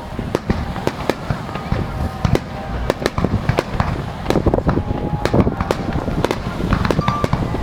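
Aerial fireworks bursting over and over in quick succession: many sharp bangs and crackles over a steady low rumble.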